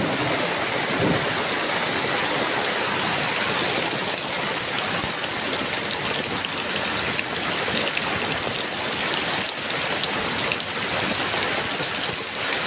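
Heavy rain falling steadily, a dense even hiss of drops, with the tail of a thunder rumble dying away in the first second.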